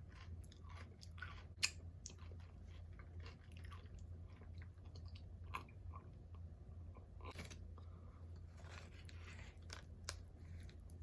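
Close-up chewing and crunching of a chip with dip, with scattered sharp crunches, the loudest about one and a half seconds in. A steady low hum runs underneath.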